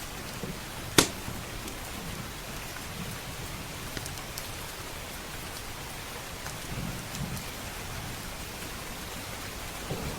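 Steady heavy rain, with a single sharp, loud pop from the log fire about a second in and a few fainter crackles. Soft low rumbling comes and goes underneath.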